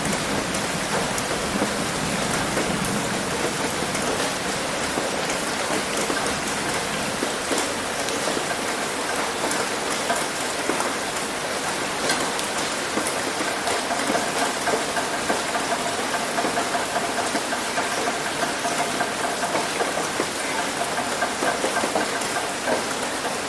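Heavy rain hitting a roof: a dense, steady patter of many drops.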